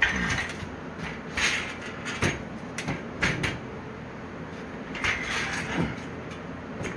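Metal bed-frame parts being handled: irregular scrapes and knocks, a handful spread through the stretch.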